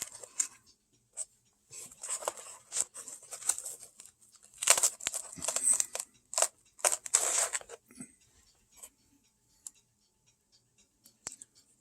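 Hands rummaging through small resin model parts and their wrapping: irregular rustling and crinkling with sharp clicks, dying down to a few light ticks after about eight seconds.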